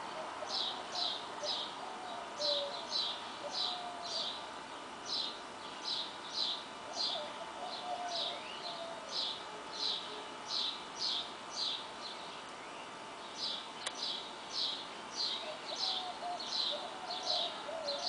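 A songbird chirping over and over, short high chirps about two a second, often in pairs, breaking off briefly about twelve seconds in before going on. Fainter, lower warbling calls from another bird come in now and then.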